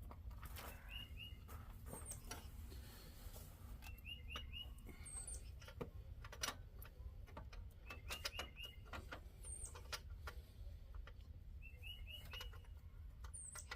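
A small songbird repeating a short phrase of three quick notes about every four seconds, with single higher chirps between the phrases. Scattered faint clicks and a steady low hum lie underneath.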